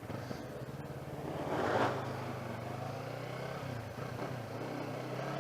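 Motorcycle engine running steadily through an open exhaust with its tip removed, on a Yamaha MT-03. About two seconds in, a passing vehicle swells and fades over it.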